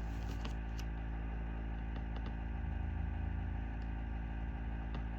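A steady low hum with several fixed pitches, with a few faint soft ticks over it.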